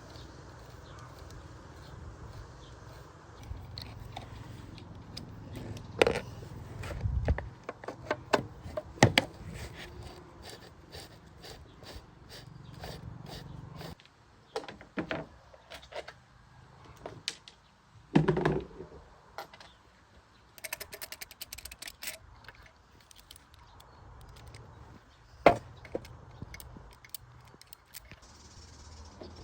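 Irregular clicks and knocks of hand tools and metal parts being handled during repair work. The loudest knocks come about six seconds in, a cluster around eighteen seconds, and one near twenty-five seconds, over a low background hum that changes suddenly about halfway through.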